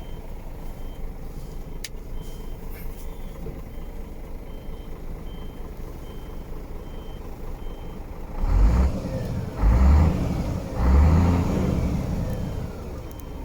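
Scania R124.360 truck's diesel engine idling, revved three times in quick succession about two-thirds of the way in, each rev dying back toward idle. A reversing beeper beeps steadily about twice a second throughout.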